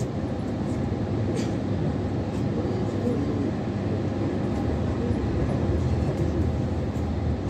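Steady rumble of a passenger train running at speed, heard from inside the carriage.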